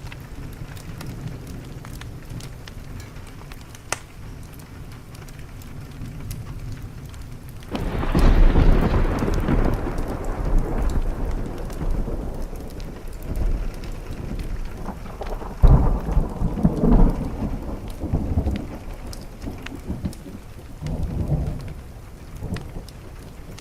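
Thunder over steady rain: a sudden loud clap about eight seconds in rolls on and fades over several seconds, followed by more rumbles later on. Faint crackles from a wood fire sound throughout.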